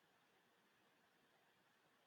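Near silence: faint room tone during a pause in speech.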